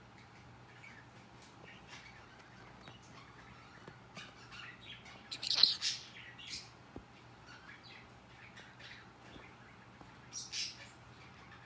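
Pet birds chirping in short, scattered calls, with a louder cluster of chirps about halfway through and another near the end.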